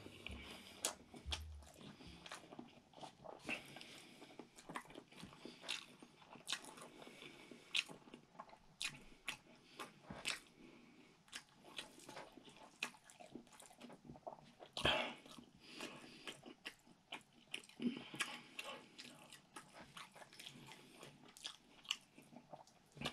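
Close-up eating sounds: a person chewing a mouthful of food, with irregular wet clicks and smacks of the mouth and a few louder smacks in the middle.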